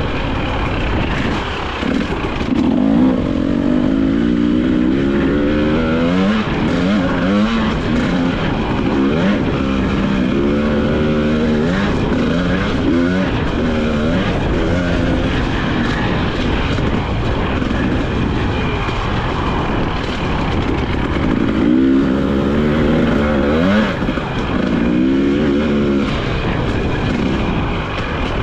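2022 Husqvarna TE300i 300cc two-stroke engine, revving hard and easing off again and again as the throttle is worked, its pitch rising and dropping in repeated sweeps.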